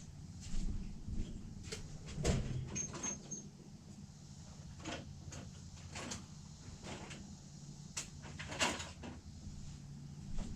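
Small metal starter parts being handled on a workbench: scattered clicks and knocks, the loudest about two seconds in and again near the end, over a steady low hum.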